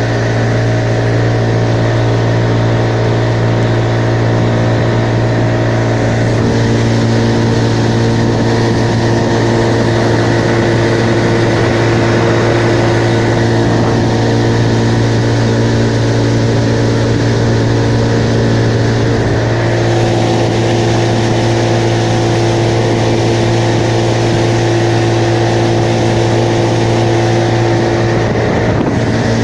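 An engine running steadily at constant speed, with a strong low hum and steady overtones that shift slightly in pitch about six and twenty seconds in.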